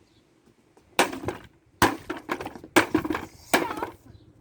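A hammer striking a plastic kids' ride-on toy car four times, each blow a sharp crack with a short rattle of plastic after it.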